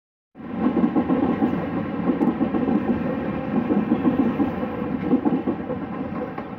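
Passenger coaches of an express train rolling past close by: a steady rumble of steel wheels on rail that eases a little near the end as the coaches move away.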